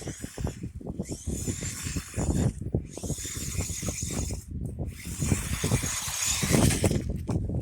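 Electric RC truck running over a snowy road: a high motor and gear whine that drops out briefly a few times, over a crackle of tyres and small knocks.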